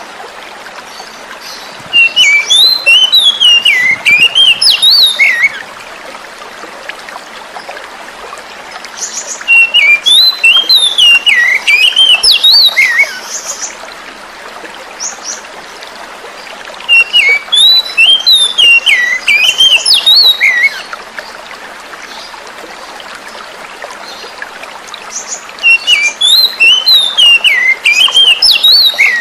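Oriental magpie-robin (kacer) song, four bursts of quick, varied whistled phrases a few seconds long with short pauses between, over a steady sound of running water.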